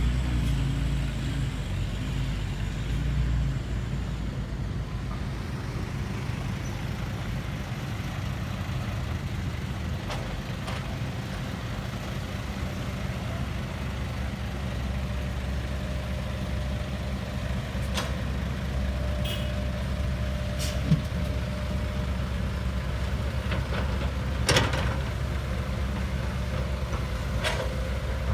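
Heavy diesel dump truck engine running steadily, with a few sharp metallic knocks in the second half.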